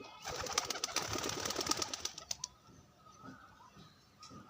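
Pigeon flapping its wings: a burst of rapid wingbeats lasting about two seconds, starting just after the beginning, then quieter.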